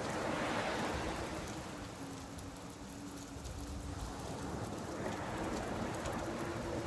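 Rain falling with sea waves washing onto a beach, the surf swelling just after the start and again near the end. A steady low hum runs underneath and rises slightly in pitch near the end.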